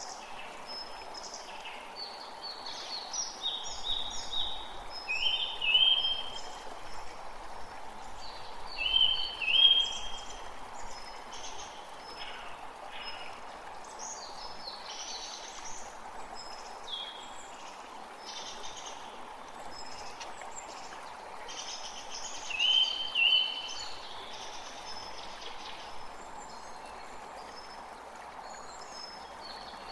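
A creek running steadily, with several birds singing and calling over it. A short two-note call recurs a few times as the loudest sound.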